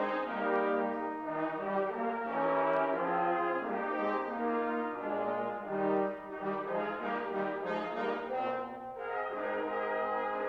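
Brass-toned instrumental music: several parts sounding together in sustained, moving chords.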